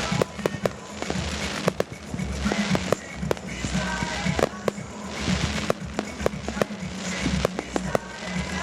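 Fireworks display: many sharp bangs and cracks in quick succession, overlapping with the rumble and echo of earlier bursts.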